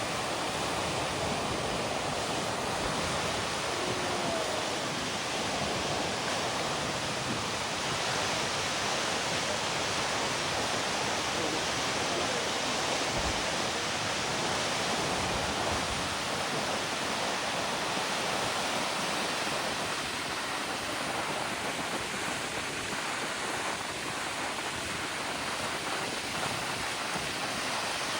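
Godafoss waterfall: a large volume of glacial river water falling and rushing in a steady, unbroken noise.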